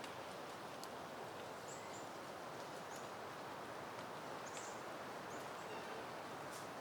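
Soft, steady wind rustling through leafy peony plants. A few faint, short, high bird chirps sound over it.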